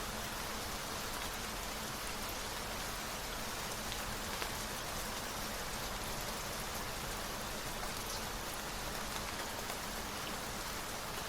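Steady rain falling, an even hiss with scattered small drop ticks and a faint low steady hum underneath.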